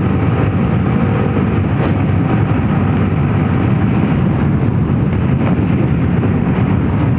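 Motorcycle being ridden at a steady speed: its engine running under a constant rush of wind and road noise.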